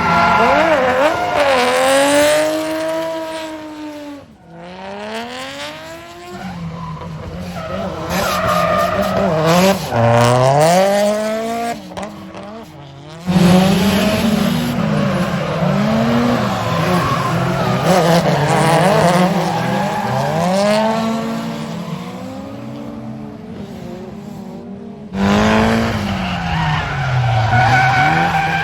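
Drift cars' engines revving up and down through drifts, pitch rising and falling again and again over tyre squeal and skidding noise, with several abrupt changes between clips.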